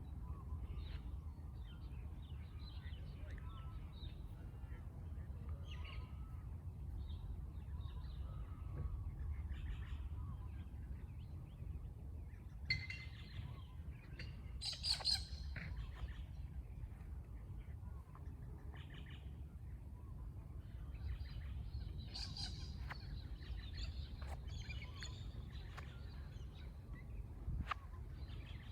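Mixed chorus of birds chirping and calling, broken by louder harsh cockatoo screeches about 13 and 15 seconds in and again around 22 seconds, over a steady low background rumble.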